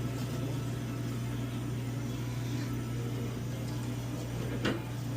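Steady low mechanical hum over background noise, with one short sharp click near the end.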